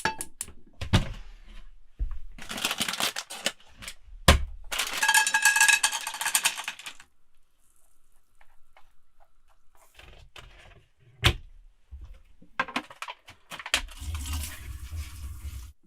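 Dessert being made by hand with kitchenware: utensils clinking and scraping against a dish or bowl, with scattered knocks and two longer bursts of stirring or rattling in the first half.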